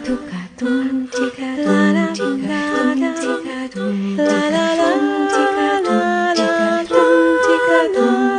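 A cappella vocal music: voices humming and singing a melody in harmony, with no instruments.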